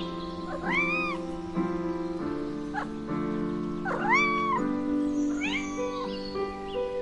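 Domestic cat meowing three times, each meow rising then falling in pitch, over background music with sustained chords.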